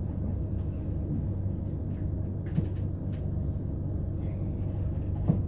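Steady low rumble inside a c2c electric passenger train carriage, with a few short hisses and two brief knocks.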